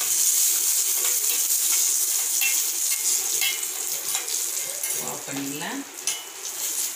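Cashew nuts and raisins sizzling in hot ghee in a small steel pan, with a steel spoon scraping and clinking against the pan as they are stirred. The sizzle quietens near the end as the pan is lifted off the flame.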